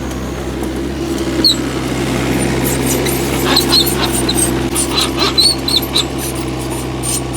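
Heavy diesel engine of an excavator running steadily, with a run of short high squeaks about halfway through.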